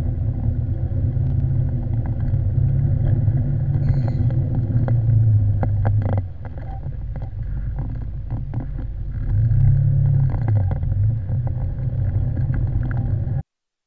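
A car's engine and road noise: a steady low hum with a few faint clicks. It drops in level about six seconds in, rises again around ten seconds, and cuts off shortly before the end.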